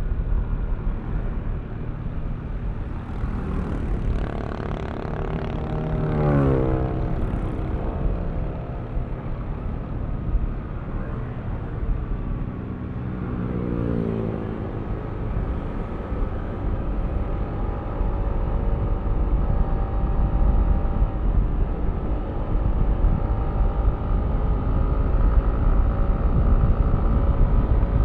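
Yamaha Aerox V3 scooter's 155 cc single-cylinder engine running on the move, with wind rumble on the microphone. The engine note drops sharply twice, about six and fourteen seconds in, then climbs slowly and steadily as the scooter picks up speed.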